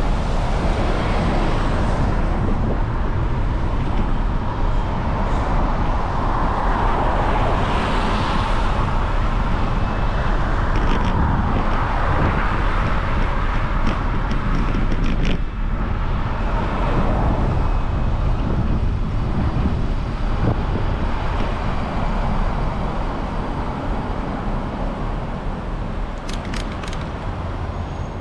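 Steady road and traffic noise heard while riding a bicycle, with cars going by. A few short sharp clicks come about halfway through and again near the end.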